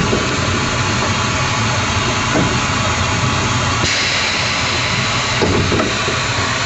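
15-inch gauge miniature railway train running: a steady low hum under a loud hiss, the hiss growing brighter about four seconds in.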